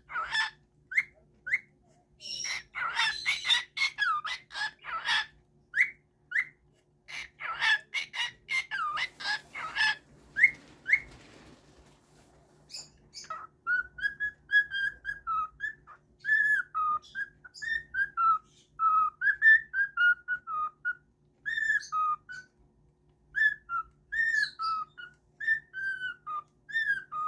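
Pet bird squawking and chirping in short bursts, then about halfway through switching to a run of clear whistled notes that rise and fall like a tune.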